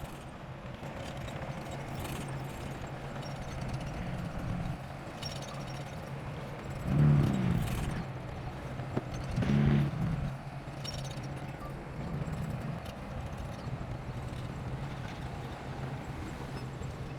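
Bulldozer diesel engine running with a steady low hum and light clanking, surging louder twice, briefly each time, about seven and nine and a half seconds in.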